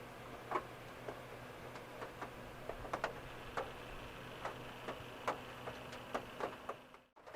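Raindrops ticking irregularly on a car's roof and body, sharp scattered taps over a steady faint hiss and low hum.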